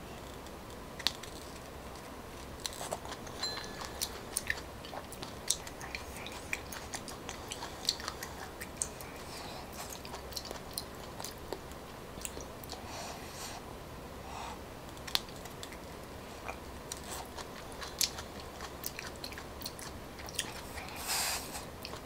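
Close-up mouth sounds of chewing and biting soft coconut palm weevil larvae (đuông dừa) dipped in fish sauce, with many short wet clicks and smacks scattered throughout.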